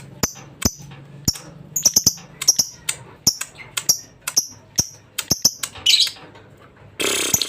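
Lovebird chirping: a rapid run of short, high chirps and sharp clicks, several a second, ending in a louder, harsher burst of chatter.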